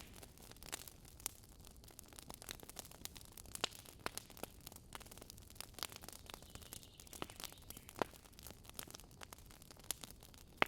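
Wood campfire crackling, with irregular sharp pops and snaps of burning wood, a few of them louder, one about eight seconds in and one near the end.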